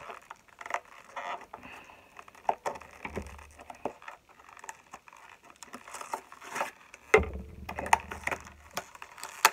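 Scattered taps, clicks and rustles of a small toy box being handled and pried at as it is worked open, with a couple of dull bumps.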